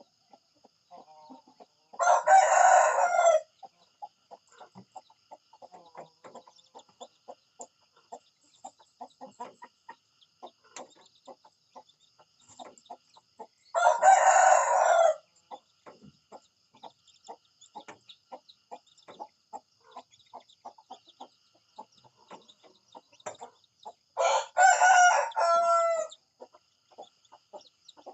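Rooster crowing three times, each crow a second or two long, the crows about ten to twelve seconds apart. Many faint short ticking sounds fill the gaps between crows.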